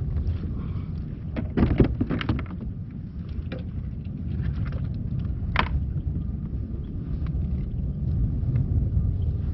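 Steady low rumble with a cluster of knocks and clatters about two seconds in and one sharp knock a little past halfway, from gear being handled aboard a fishing kayak.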